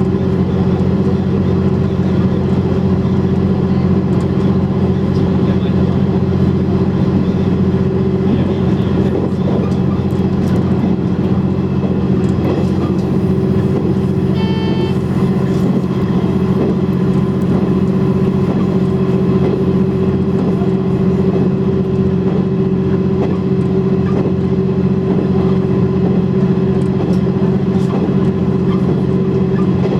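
KiHa 100 diesel railcar's engine running steadily under way, a constant low drone. About halfway through, a short high tone sounds once, lasting under a second.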